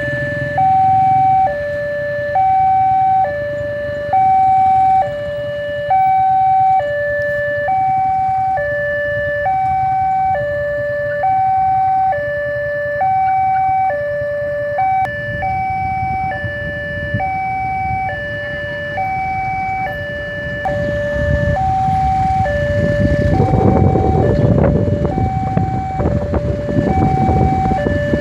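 Railway level-crossing warning signal sounding a steady two-tone alternation, high then low, each tone about a second long. From about twenty seconds in, a low rumble builds as a train approaches and grows loudest a few seconds later.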